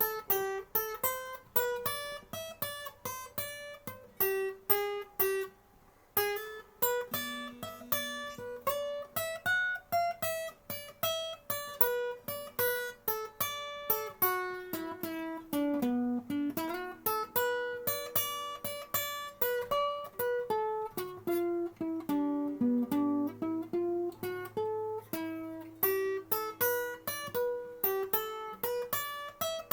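Acoustic guitar playing an instrumental tune in separately plucked notes, with a brief pause about six seconds in.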